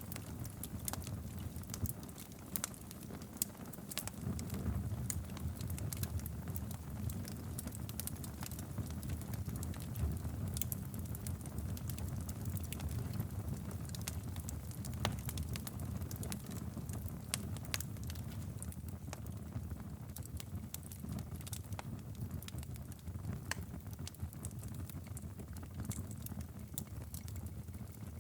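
Wood fire in a fireplace crackling steadily, with many irregular sharp pops and snaps over a low, even rumble of the flames.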